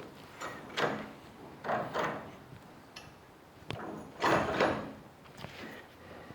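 Metal suspension parts being worked together by hand: a string of scrapes and knocks about a second apart, with a few sharp clicks and the loudest scrape a little past the middle.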